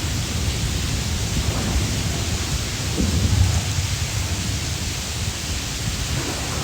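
Steady rain falling: an even hiss over a constant low rumble.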